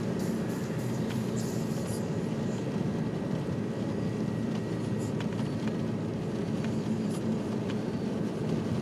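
Steady in-cabin rumble of a Honda Civic Si driving slowly on a snow-covered road: engine and tyre noise, with a few faint ticks.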